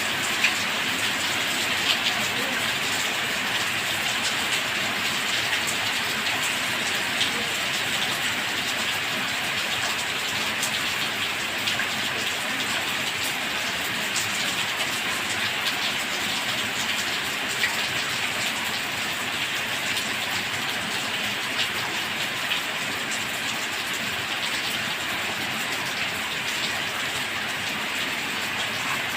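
Steady rain falling, an even hiss with many scattered drops tapping throughout.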